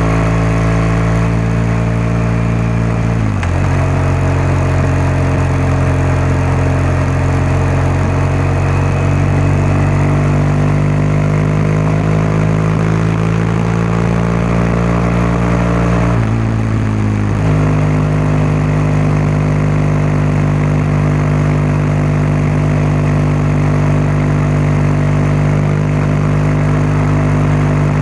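BMW R1200GS boxer-twin engine and exhaust running under way at a steady, moderate pace. The engine note breaks briefly about 3 seconds in and again about 17 seconds in, and climbs slowly in pitch between the two breaks.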